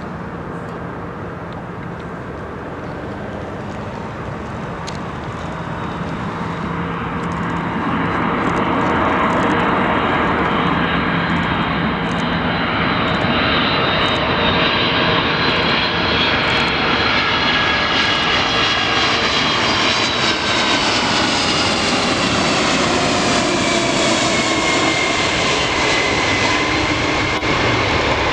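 Boeing 747 Dreamlifter's four turbofan engines on landing approach, growing steadily louder over the first several seconds and then holding loud. In the second half a high engine whine slides down in pitch as the jet passes.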